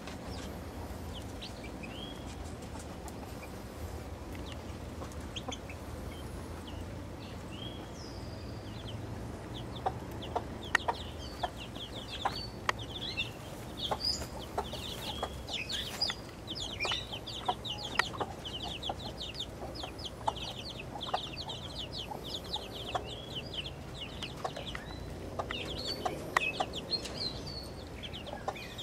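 Young chicks peeping in quick, high, falling chirps that grow dense from about ten seconds in, with a mother hen clucking among them. A few sharp taps are scattered through it.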